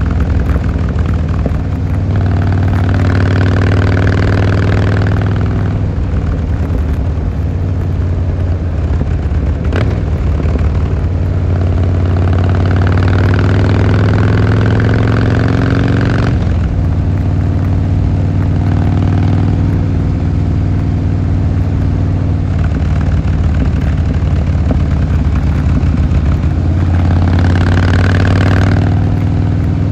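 Harley-Davidson Fat Boy Lo's air-cooled V-twin running while riding, its engine note climbing under throttle three times (a few seconds in, around the middle, and near the end). After the middle climb the note drops off sharply, as on a shift or closing the throttle.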